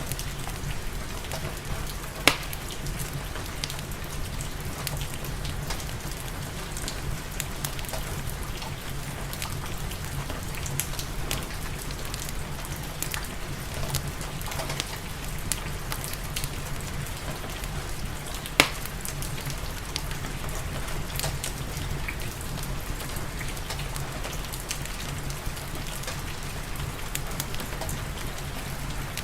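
Steady rain falling, mixed with a fireplace crackling in small scattered clicks. Two loud sharp pops from the burning wood, one about two seconds in and one past the middle.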